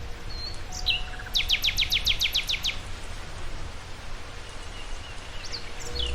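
A songbird singing a quick run of about ten falling notes just after a second in, with a few short chirps later, over a steady low outdoor rumble.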